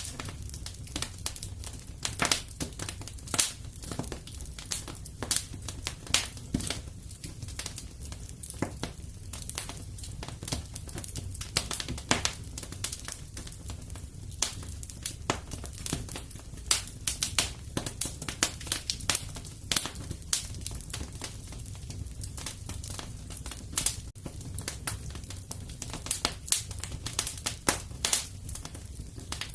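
Fire crackling in a fireplace: a dense, irregular run of sharp pops and snaps over a low, steady rumble of burning.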